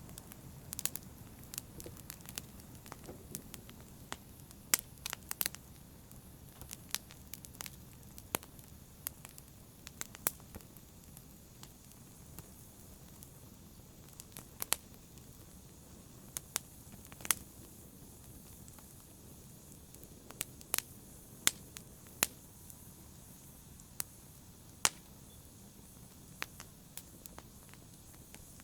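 Wood fire crackling in a fireplace: sharp pops and snaps at uneven intervals, about one a second, over a faint low rumble of the flames.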